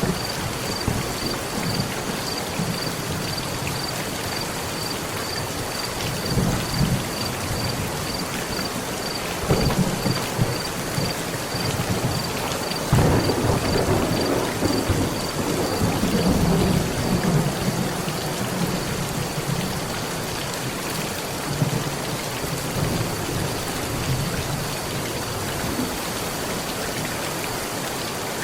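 Steady heavy rain falling on a metal roof, with thunder rumbling several times. The longest and loudest roll comes about halfway through and lasts several seconds.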